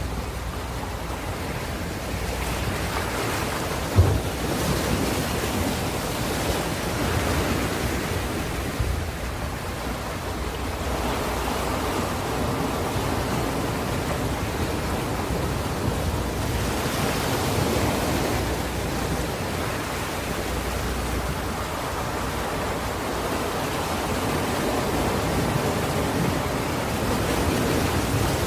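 Ocean surf: waves breaking and washing in, a steady rush that swells and eases several times. A brief low thump comes about four seconds in.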